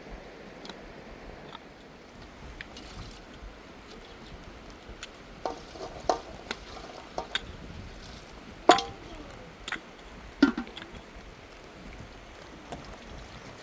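Scattered clinks and knocks of objects being handled over a steady hiss, the loudest two, about nine and ten and a half seconds in, with a short ring.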